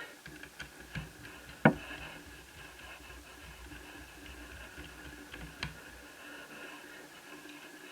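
Small screwdriver clicking and tapping against screws in the Asus Eee PC 1001P netbook's chassis while the screws under the keyboard are taken out. One sharp clack comes about two seconds in and another near six seconds, over a steady faint hum.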